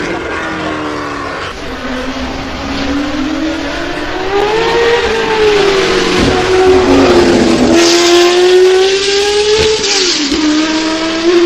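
A racing car's engine at high revs, its pitch climbing and falling as it accelerates and backs off, with quick dips in pitch at gear changes about six, eight and ten seconds in.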